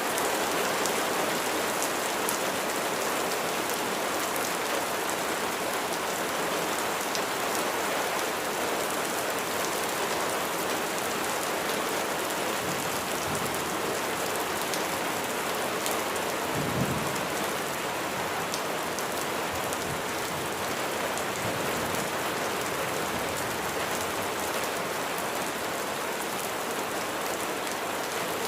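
Steady heavy rain falling on surfaces, a dense even hiss with crisp individual drop ticks through it. A brief low rumble sounds a little past halfway.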